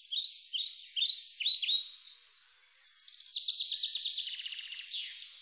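A songbird singing: a run of short, high chirping notes about three a second, breaking into a fast trill about three seconds in and ending with a falling note.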